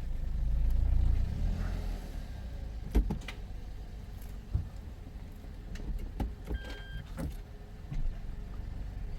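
Toyota car with an MMT semi-automatic gearbox, its engine running with a low rumble that swells about a second in. Several sharp clicks and knocks from the cabin, and a short electronic beep about seven seconds in, as reverse is tried after a clutch calibration.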